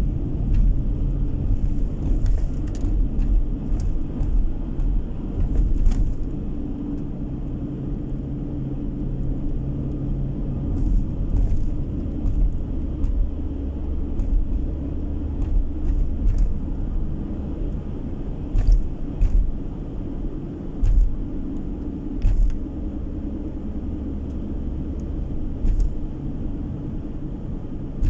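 Car running along a road, heard from inside the cabin: a steady low rumble of engine and tyre noise, with a few faint ticks and knocks scattered through it.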